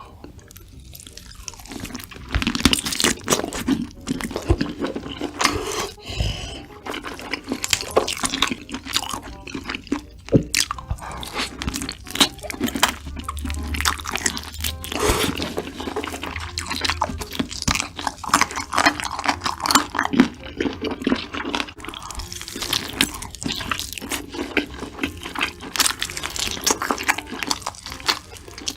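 Close-miked eating sounds: crisp chicken skin being bitten and chewed, with irregular crunches and crackles.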